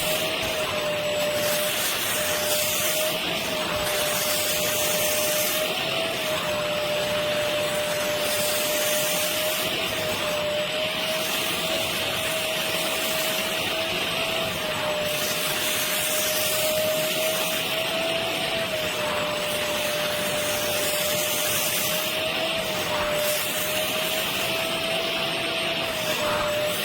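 Vacuum motor of a 450 W water upholstery cleaner running steadily, a constant hissing whine with a single tone that wavers slightly in pitch now and then.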